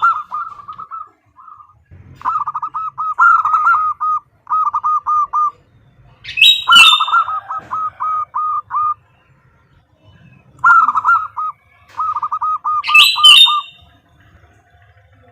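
Female zebra dove (perkutut) calling to a male: about six bursts of quick, evenly repeated cooing notes, each a second or so long. Twice a louder, higher call opens a burst, about a third of the way in and again near the end.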